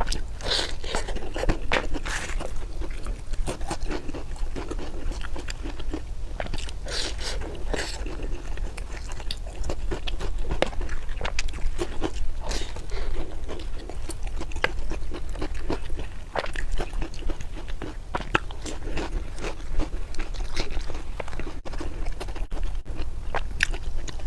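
Close-miked eating: a person biting and chewing food with crunchy, wet mouth sounds, many small clicks and crackles in irregular succession over a steady low hum.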